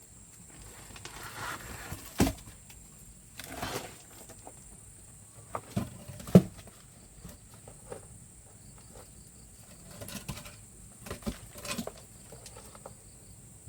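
Scattered knocks and rustling, the sharpest knocks about two and six seconds in, over a steady high-pitched insect buzz.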